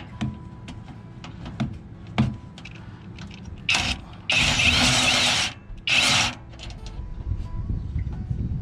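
Clicks and clanks of hand work on the steps' mounting hardware, then a power tool run in three short bursts, the middle one about a second long.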